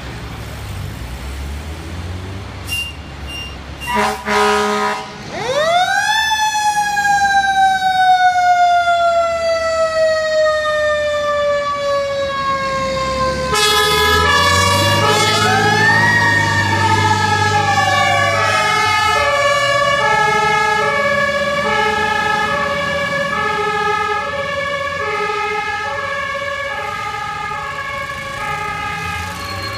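Fire apparatus sirens. A few short horn blasts come about four seconds in. Then a wailing siren rises sharply and slowly winds down, and from about halfway a second siren alternates between two pitches, over the low rumble of the trucks' engines.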